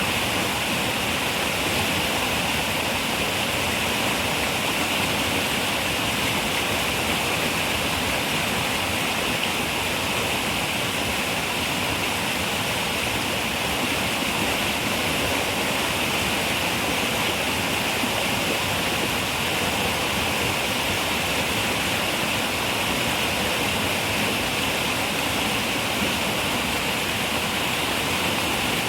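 Running river water rushing steadily, an even hiss-like flow brightest in the upper range.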